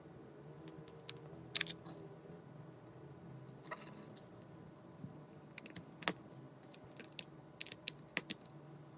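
Small hard clicks and taps of tools and parts being handled in phone repair work, with a brief scraping rustle near the middle and a quick run of clicks in the second half.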